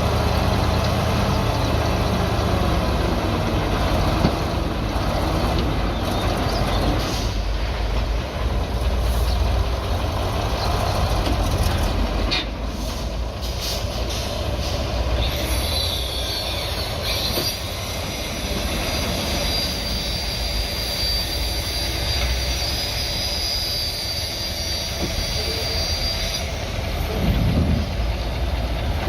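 Mini bulldozer working, its engine running steadily under a low rumble, with a high metallic squeal from the steel tracks held for about ten seconds in the second half.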